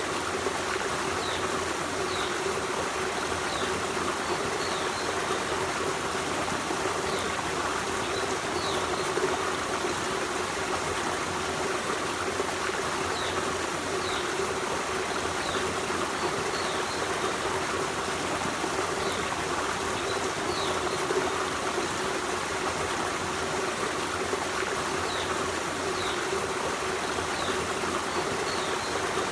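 Forest stream running: a steady rush of flowing water, with faint short high chirps now and then.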